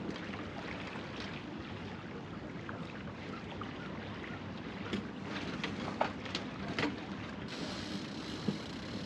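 Small sailboat under engine power: a steady low engine drone with water along the hull, a few light knocks and clicks on board about halfway through, and a rush of wind hiss near the end.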